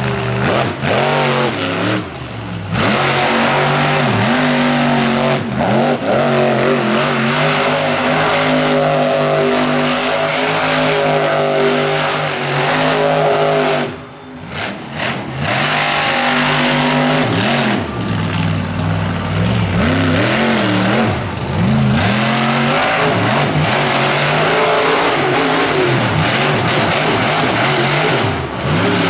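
Monster truck engine revving hard, its pitch rising and falling again and again, with a brief let-off about halfway through.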